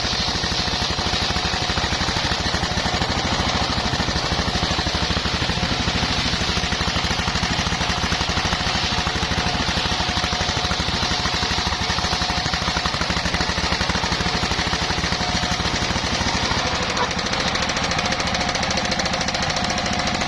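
Engine-driven portable circular sawmill running at a steady speed: a rapid, even knocking engine beat under a steady whine and hiss from the saw.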